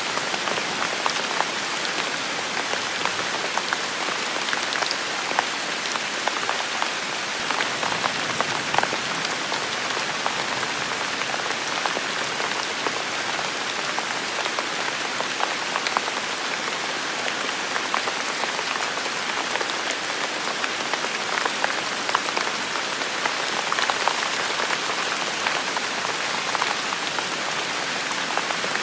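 Heavy rain falling steadily, a dense even hiss with many individual drops pattering close by.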